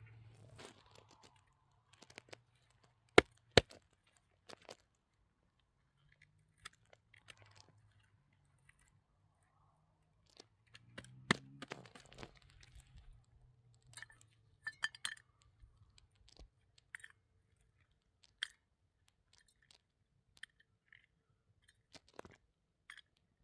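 Scattered light clinks and knocks of small hard objects being handled, with two sharp loud knocks about three seconds in and small ringing clinks a little past the middle, over a faint low hum.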